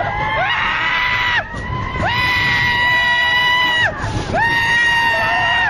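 Riders screaming on a fast amusement ride: three long, high, held screams, each rising at the start and dropping away at the end, over a low rumble.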